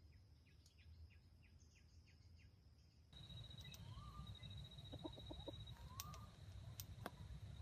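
Very faint outdoor ambience: soft repeated chirps at first. After about three seconds come a steady high thin tone, a couple of faint bird calls and a quick run of quiet chicken clucks.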